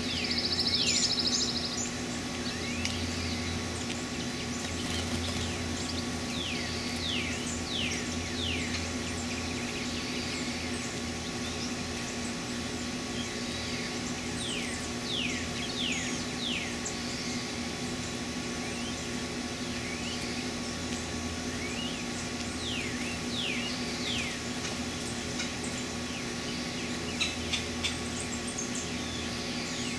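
Songbirds calling in the woods: many quick downward-slurred chirps in loose series, over a steady low hum. A short buzzy trill sounds in the first second or two.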